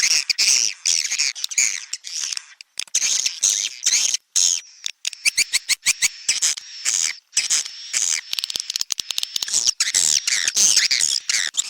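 Recorded swiftlet calls played as a swiftlet-house lure: dense, rapid chirping twitters mixed with fast trains of clicks, loud and nearly unbroken.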